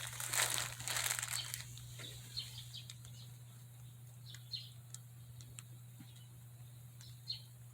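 Rustling in the first second and a half, then small birds chirping: short, falling chirps scattered every second or so, over a steady low hum.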